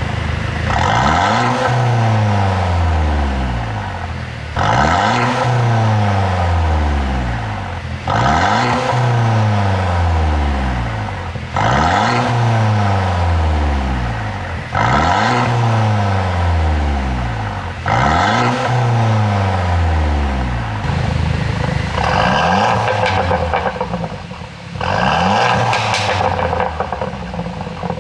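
Mercedes-Benz W205 C200's turbocharged four-cylinder engine revved repeatedly, each time falling back slowly through a run of exhaust pops and crackles on the overrun from a pop-and-bang tune. There are about six long revs, each a few seconds apart; after about twenty seconds the blips come shorter and closer together.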